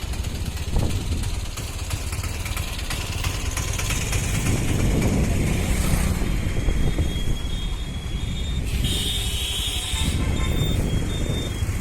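Wind rushing over the microphone and road noise while riding a motorbike in traffic. A high thin tone cuts in and out over the last few seconds.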